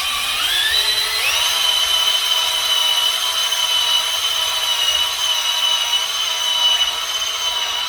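Electric drill driving a stone cylinder hone in an engine bore lubricated with kerosene: the drill spins up with a rising whine over about the first second, then runs at a steady speed.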